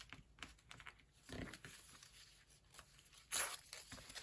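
Paper being peeled and scraped off the back of a book cover: faint scattered scratches, with a short, louder rasp about three seconds in.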